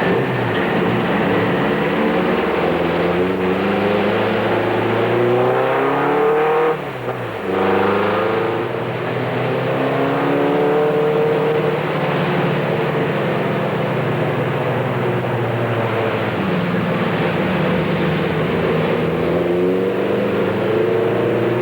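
Race truck's engine at racing speed, heard from inside the cab: the engine pitch climbs and falls again and again as it accelerates and backs off, with a brief sharp drop in loudness about seven seconds in.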